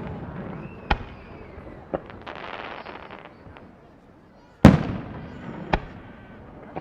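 Aerial fireworks bursting: sharp bangs about a second and two seconds in, a crackling fizz of crackle stars just after, then a loud boom followed by another sharp bang near the end, each boom trailing off in a rumbling echo.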